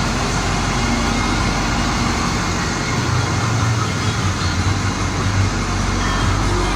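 Box truck engine running steadily, with a low hum under a broad rumbling noise.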